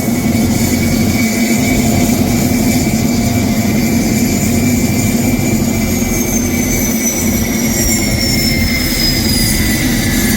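GTD-350 turboshaft engine of a homebuilt helicopter running steadily, with a low hum and a high turbine whine. About halfway through, the whine starts sliding slowly down in pitch.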